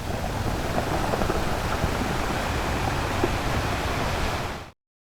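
Steady rushing noise with no clear engine note, cutting off suddenly near the end.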